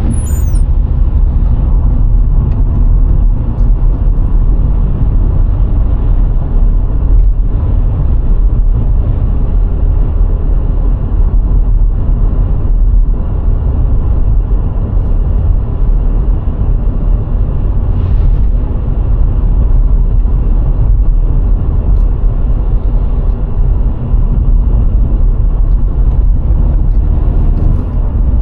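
VW Golf IV 1.6 driving at a steady speed on a country road: a steady, loud rumble of engine, tyres and wind.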